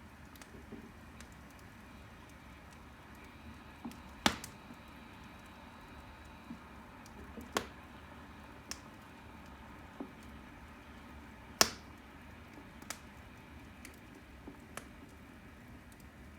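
Firewood burning in a fireplace: a faint steady hiss with irregular sharp crackles and pops, two of them much louder than the rest.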